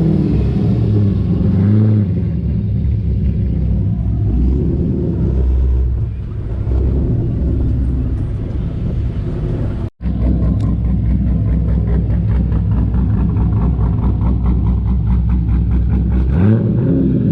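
Car engine running with a deep, steady exhaust note and throttle blips, the pitch rising and falling near the start and again near the end. The sound drops out for an instant about ten seconds in, then the engine carries on.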